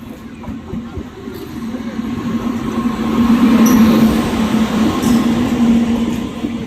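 Train passing close by: a steady low hum under a rushing rumble of wheels and running gear that builds to a peak in the middle and eases off near the end.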